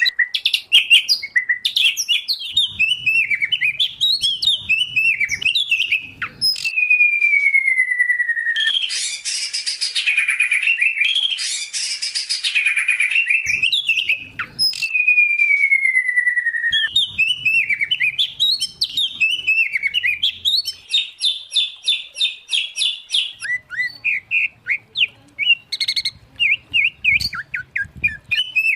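Songbirds singing continuously: white-rumped shama, oriental magpie-robin and greater green leafbird from a mixed competition-bird recording. Varied whistled phrases with long falling whistles, a harsh rasping passage about a third of the way in, and fast repeated notes later on.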